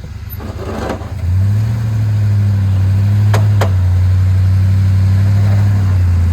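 Off-road vehicle's engine pulling under load as it crawls forward, its note rising about a second in and then held steady. Two sharp knocks come close together a little past the middle.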